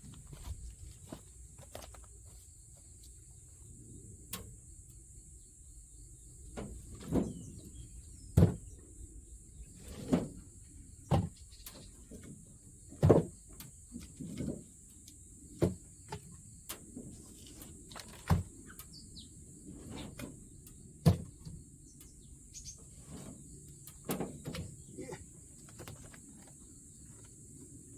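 Dry branches and firewood being handled and snapped, heard as irregular sharp knocks and cracks, several of them loud, with a steady faint high-pitched hiss behind.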